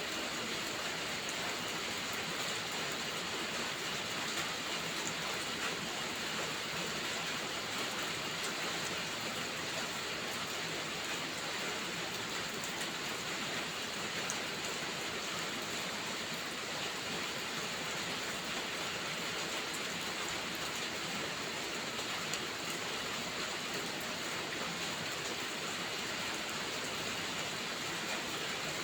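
Steady rain falling in an even hiss, with faint scattered ticks of individual drops.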